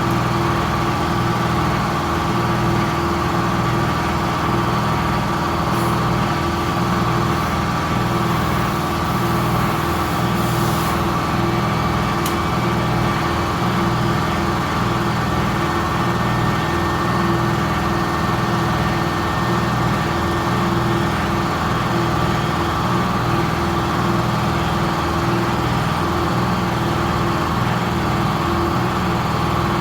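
Air compressor running steadily, a pulsing motor drone while it inflates a tire, with a faint high hiss for a few seconds about a third of the way in.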